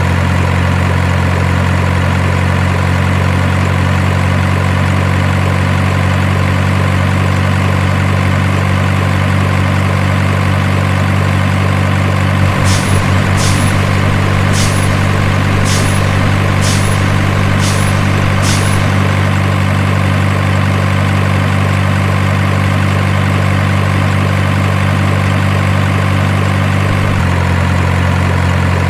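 Steady diesel truck engine idling sound. About seven sharp clicks come at roughly one a second a little under halfway through, and the engine note shifts near the end.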